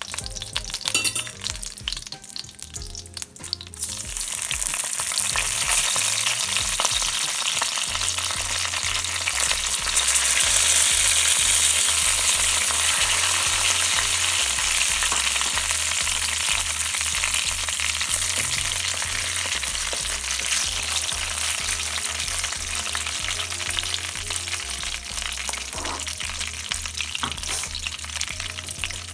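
Whole spices frying in hot oil and ghee in a pan: a few clicks of stirring in the first few seconds, then a steady sizzle that gets louder about four seconds in.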